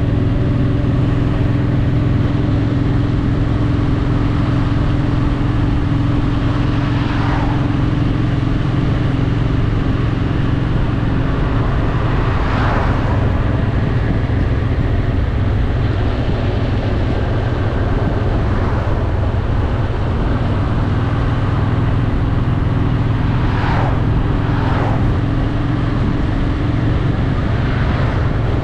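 Honda Shadow VT750's V-twin engine running steadily while cruising at an even speed, with a few short whooshes of noise.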